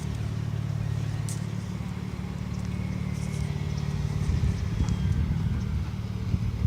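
Car engine idling with a low, steady exhaust rumble, growing a little louder and rougher about four seconds in.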